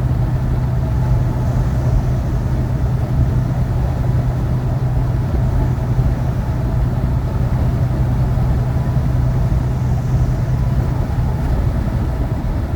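Road and engine noise heard from inside a moving vehicle at cruising speed: a steady low hum under an even rumble of tyres and wind.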